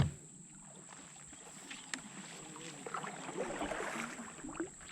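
A single sharp knock right at the start, then water swishing against a canoe as it is paddled, growing busier in the second half, with faint voices in the background.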